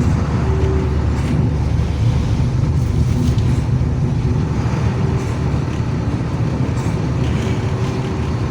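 Dump truck's diesel engine running steadily with a low rumble, along with road noise.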